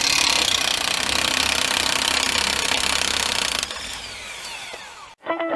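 A power tool runs at full speed with a loud, harsh noise. A little under four seconds in it is released and winds down with a falling whine.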